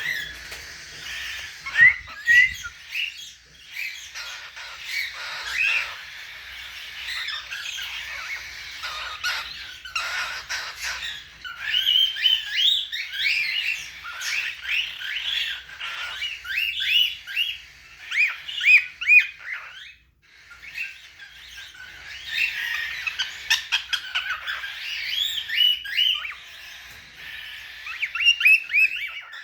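Young cockatiel chattering: long runs of quick chirps, warbles and squawks, with a short break about twenty seconds in.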